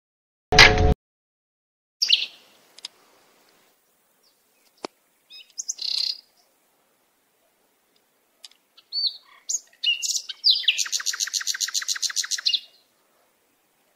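Birds chirping and calling, with scattered short high notes and, near the end, a fast trill of rapidly repeated notes lasting about two seconds. A short loud blast about half a second in is the loudest sound.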